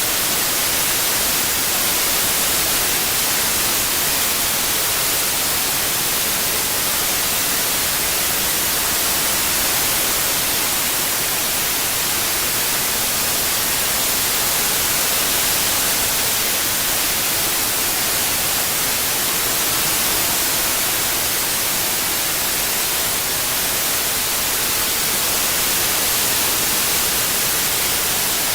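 Steady synthetic white noise, an even hiss strongest in the high frequencies, with slow gentle swells in level. It is played as a masking sound for tinnitus relief.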